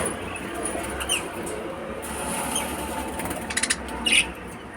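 Lovebirds giving a few short, high chirps and clicks over a steady background noise, one about a second in and a cluster near the end.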